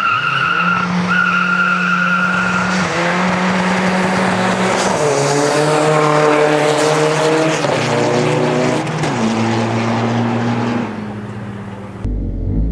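Seat Ibiza Cupra engine held at steady high revs, then launched hard with tyres squealing and skidding, the engine pitch stepping up and down as it pulls away.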